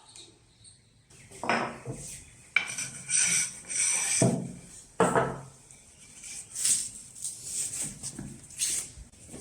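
Hard objects, metal among them, being handled and set down on a workbench: a series of clinks and clatters, with two sharp knocks about two and a half and five seconds in.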